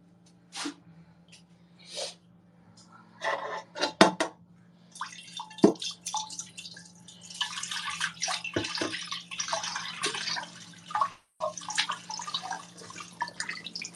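Scattered knocks and clinks, then tap water running into a sink from about five seconds in, with clinks through it, as when washing dishes; a steady low hum sits underneath.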